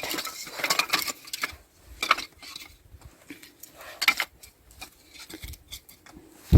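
Scattered light knocks, clicks and rustling as paper and firewood are handled to lay a fire, busiest in the first second and a half, with single sharper knocks about two and four seconds in.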